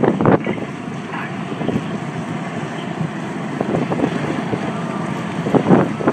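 Steady jet noise from the Red Arrows' BAE Systems Hawk T1 jets with their Adour turbofans, mixed with wind buffeting the microphone, gusting harder just after the start and again near the end.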